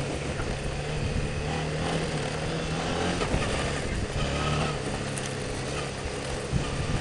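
Motorcycle engine running at low speed on an off-road trail, its note rising and falling slightly as the throttle changes.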